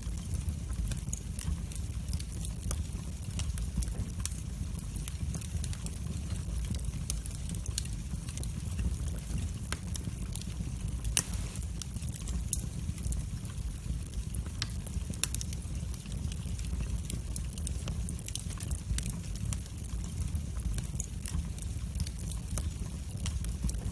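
Wood fire burning in a fireplace: a steady low rumble of the flames with irregular crackles and pops, one sharper pop near the middle.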